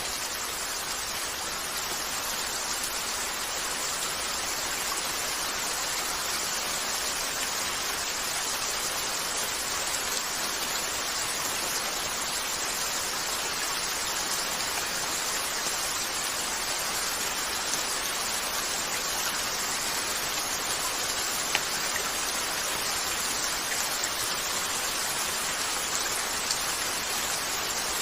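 Steady rain falling on a window, an even hiss that holds at one level, with a single sharp click about three-quarters of the way through.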